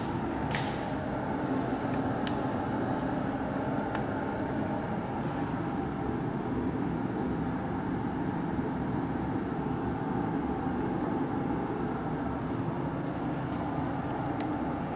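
Steady mechanical hum in a workshop, with a few light metallic clinks from tools or parts in the first couple of seconds.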